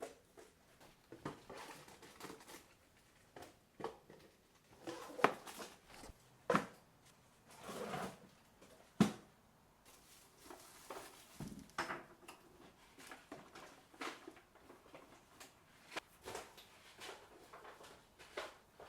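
Irregular knocks, clicks and rustles of household items and containers being handled, set down and put away, with a drawer or cupboard being worked. The loudest knocks come about five, six and a half and nine seconds in.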